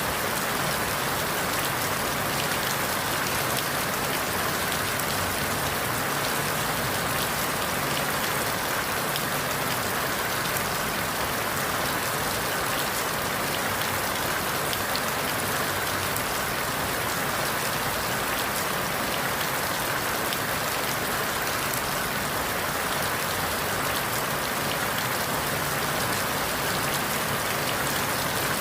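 Steady rain falling through forest leaves: a dense, even patter of raindrops with no lulls or gusts.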